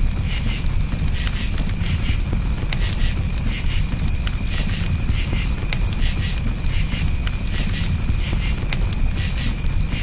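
Crickets chirping in short pulsed chirps that repeat all through, over a campfire burning with a steady low rumble and scattered small crackles.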